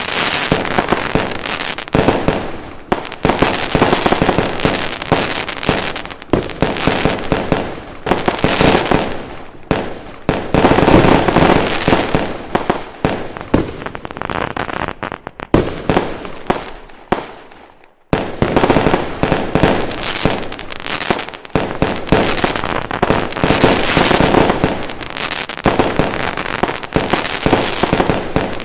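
Fireworks going off in a dense, continuous barrage of bangs and crackles. The barrage dies away briefly about two-thirds of the way through, then starts again abruptly.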